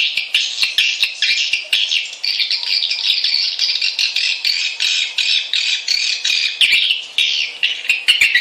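Swiftlet lure call: dense, rapid twittering chirps with sharp clicks, unbroken throughout. It is a recording used to draw swiftlets into a nesting house.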